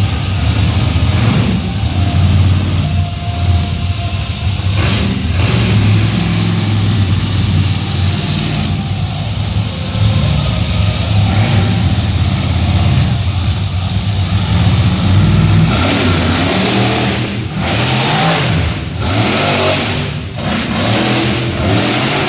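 Monster truck engine running loud and revving, its pitch rising and falling repeatedly, with the quickest swings in the last few seconds.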